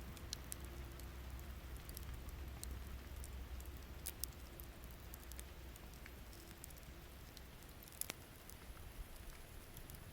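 Steady rain pattering, with scattered sharp crackles and pops from a wood campfire, the loudest pop about eight seconds in.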